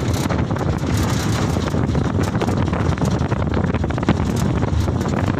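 A light truck under way: a steady engine and road rumble with wind buffeting the microphone, and frequent short rattles.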